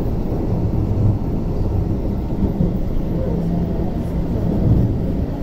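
Refurbished Keio 8000 series electric commuter train running along the line, heard from inside the car: a steady low rumble of the wheels on the track.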